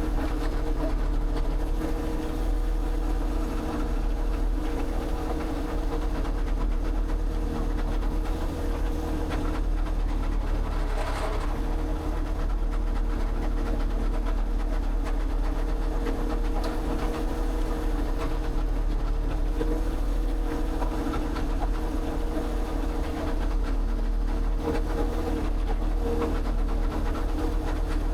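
An engine or motor running steadily, a constant low drone with a brief louder rush of noise about eleven seconds in.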